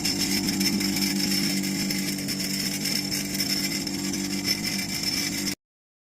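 A motor-driven tool running steadily with a constant hum and a hiss over it, cutting off abruptly near the end.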